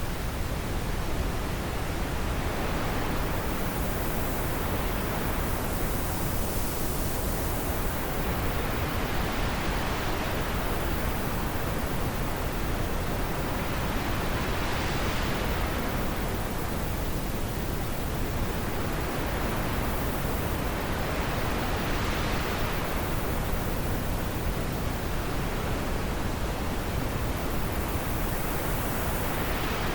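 Wind blowing as a steady rushing noise, swelling and easing in slow gusts every several seconds.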